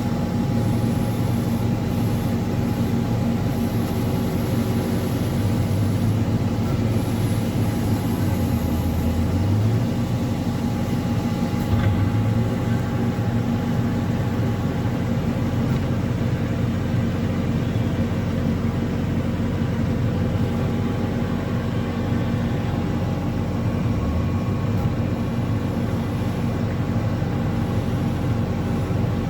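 Diesel engine of a heavy earthmoving machine running steadily, its pitch rising briefly a few times as it revs.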